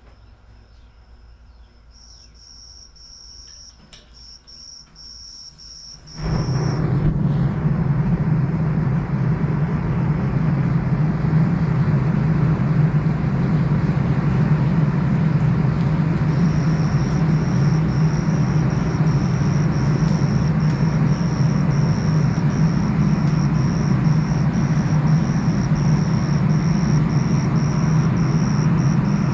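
A loud machine starts about six seconds in and then runs steadily, with a low hum under a rushing noise. Before it starts, and again over it later, an insect chirps in a high, pulsing trill.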